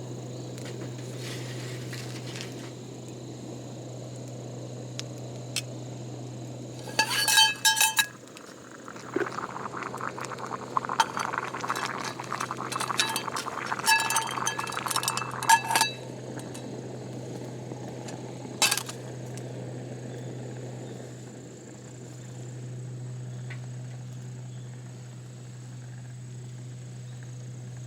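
Metal cookware clinking with a bright ringing tone in two clusters, with liquid being poured in between. A steady low hum runs underneath.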